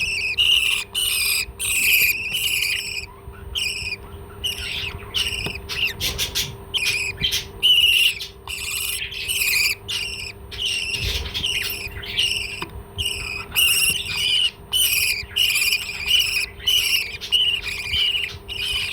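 A parrot calling over and over in short, high chirps, several a second, with brief pauses between runs, over a faint steady hum.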